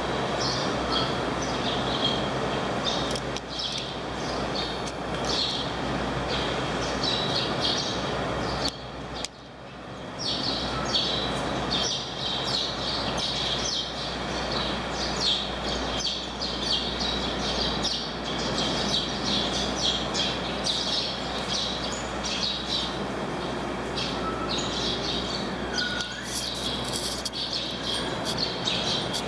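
Small birds chirping over and over above a steady low rumble and wash from a ferry's engines and water as it comes in to berth. The sound drops out briefly about nine seconds in.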